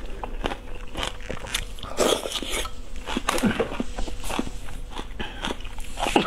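A person biting and chewing seafood, with irregular mouth clicks and smacks.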